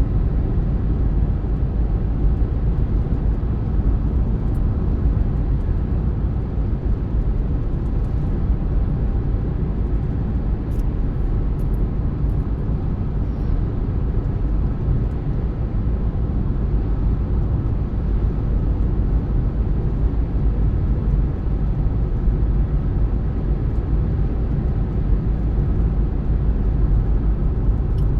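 Car driving at a steady speed: an even, low rumble of tyres on the road and engine noise.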